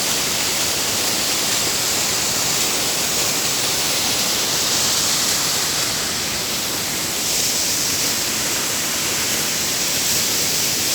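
Waterfall falling into its pool: a steady, even rush of water.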